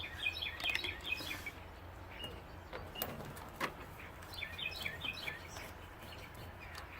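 Small bird chirping: two quick runs of high chirps, each about a second long, a few seconds apart, with a few faint clicks in between.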